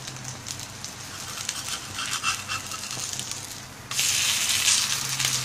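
A wheat-flour batter pancake frying in oil on a hot tawa: a steady sizzle with light crackles. About four seconds in, the sizzle suddenly turns much louder and hissier as the pancake is turned over with a metal spatula onto its oiled side.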